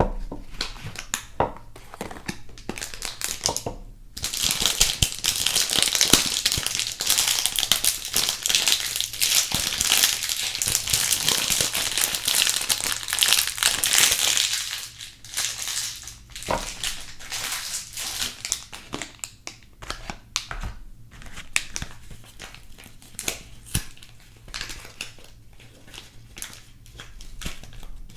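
Soap packaging being unwrapped by hand, with dense crinkling and crackling of the wrapper for about ten seconds, then quieter, intermittent rustles and small taps.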